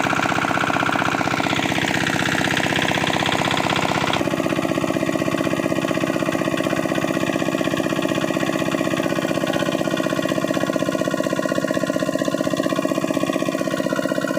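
Old diesel engine running a water pump, going steadily with a rapid, even beat from its firing strokes.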